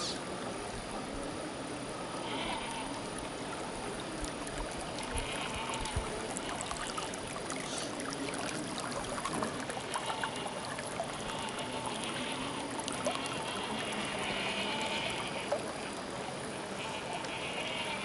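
Small brushed electric motor and gears of an RC crawler truck whining, rising and falling in pitch as the throttle changes, over a steady trickle of running water, with scattered small clicks.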